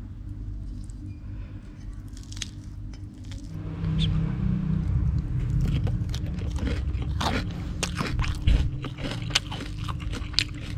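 Close-up chewing of a mouthful of rice and fried fish, with crunching and wet mouth clicks. It gets louder from about four seconds in.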